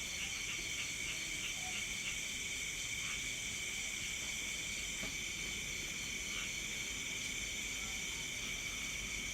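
Night insect chorus, crickets among them: several steady high trills at different pitches, one of them pulsing in a regular chirp.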